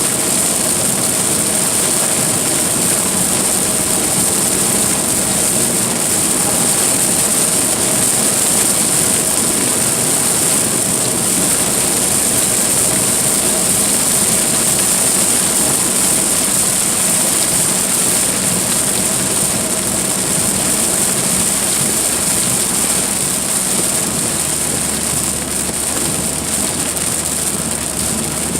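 A car driving in a heavy rainstorm: steady rain and wet-road noise over a low engine hum, easing slightly near the end.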